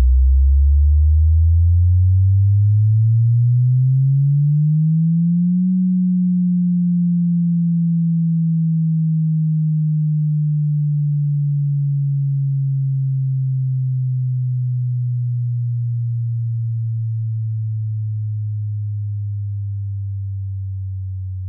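Subwoofer test tone: a pure low sine tone that sweeps up from deep bass to about 200 Hz over roughly six seconds, then glides slowly back down, fading a little.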